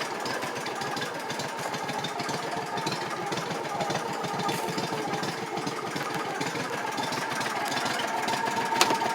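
Subaru engine of a 2014 Landmaster LM650 UTV idling steadily, with a short click near the end.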